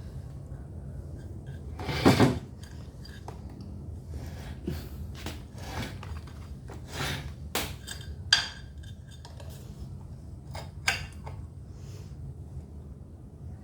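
Scattered metallic clinks and knocks of tools and generator parts being handled while a spark test is set up, with a louder clatter about two seconds in. A steady low hum runs underneath.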